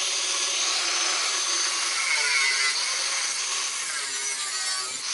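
Hand-held power tool cutting or grinding the steel of a car's rusted floor and sill, a steady hissing, rasping noise with a slightly wavering pitch as the tool is worked against the metal.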